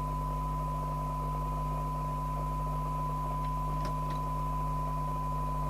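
A steady 1 kHz test tone from a CB radio receiver's speaker, heard through hiss as it picks up a weak signal-generator signal at its sensitivity limit, over a low steady hum. A few faint clicks sound about four seconds in.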